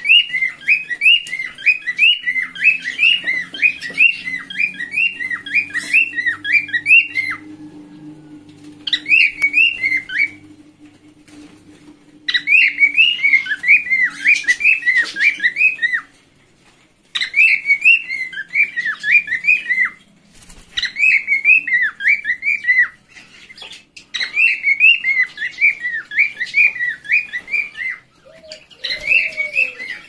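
A caged bird in an aviary calls loudly and repetitively, about two to three sharp rising-and-falling notes a second, in bouts of a few seconds with short pauses between.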